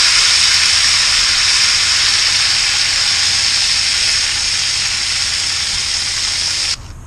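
Smash burger patties sizzling loudly in bacon grease on a hot stainless steel griddle over charcoal. The sizzle is steady and eases slightly, then cuts off suddenly near the end.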